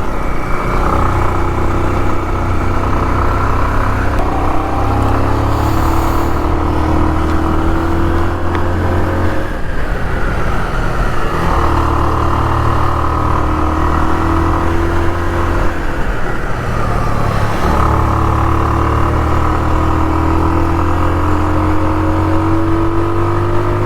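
Bajaj Pulsar motorcycle's single-cylinder engine pulling uphill, its pitch rising slowly under throttle; it eases off about ten seconds in and again around sixteen seconds, then pulls up again each time.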